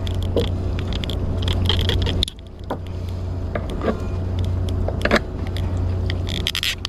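Metal fish gripper and pliers clicking, scraping and rattling while a caught sea catfish is handled to break off its spines. A steady low rumble runs underneath, with a sharper click about five seconds in.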